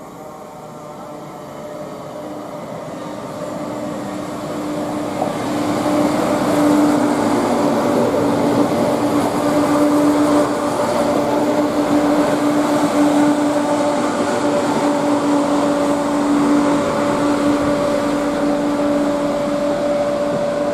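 Class 170 Turbostar diesel multiple unit arriving, growing louder over the first six seconds or so and then running on steadily. A constant hum with a held tone stays through to the end.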